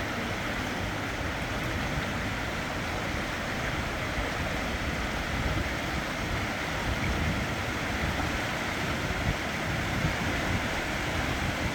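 The flooded River Trent's water rushing, a continuous steady roar of noise, with low gusty rumbling from wind on the microphone.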